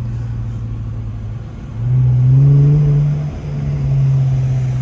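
Muffler-deleted Infiniti Q50 exhaust drone at light throttle. About two seconds in the engine pulls harder, louder and rising in pitch. After about a second and a half it breaks off sharply at a gear change, then carries on at a lower, steady pitch.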